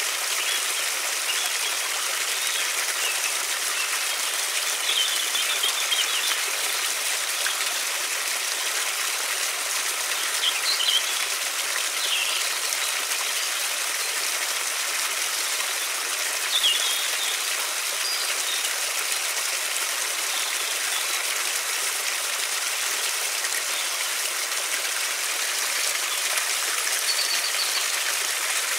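A river flowing steadily, with short bird chirps here and there above it.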